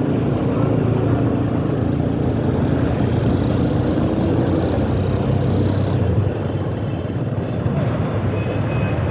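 Motorcycle engine running steadily on the move through city traffic, with road noise; the engine note eases a little about six seconds in.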